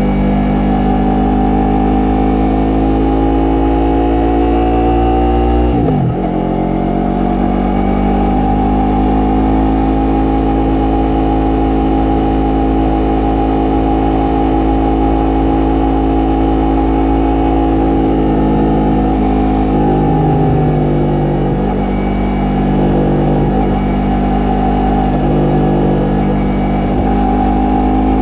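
Yamaha MT-03 motorcycle engine and exhaust under way, revving up. About six seconds in the revs drop sharply, as at a gear change, then climb again and hold fairly steady, with another brief easing of the revs about twenty seconds in.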